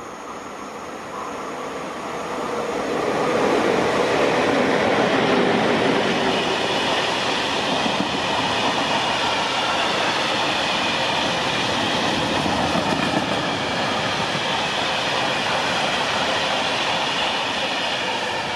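Freight train hauled by an ET22 electric locomotive with a rake of Talbot hopper wagons passing at speed. The rolling noise of wheels on rail grows over the first few seconds, then holds steady and loud as the wagons run by.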